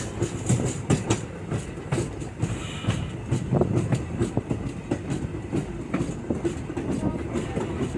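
Riding in a moving passenger railroad car: a steady low rumble of wheels on track, with irregular clicks and knocks as the wheels pass over the rail and the car rattles.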